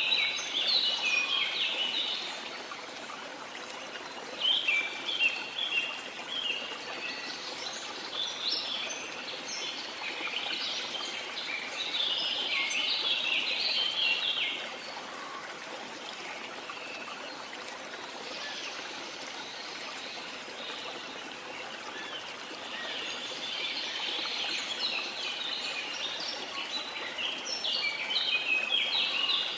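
Steady rush of falling water from a waterfall, with birds chirping rapidly in repeated flurries over it.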